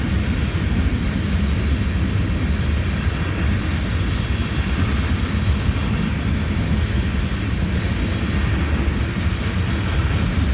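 Loaded coal train cars rolling past: a steady, loud low rumble of wheels on rail, with a higher hiss joining about eight seconds in.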